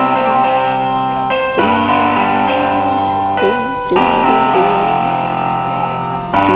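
Electronic keyboard played live in a piano voice: a slow melody over held chords that change about every two seconds.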